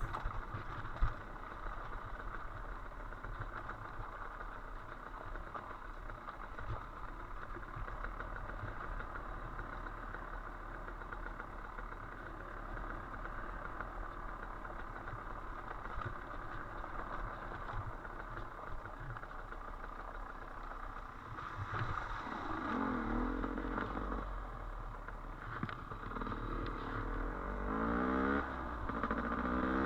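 Dirt bike engine running on a trail at a steady pace, then revving up with rising pitch a few times near the end.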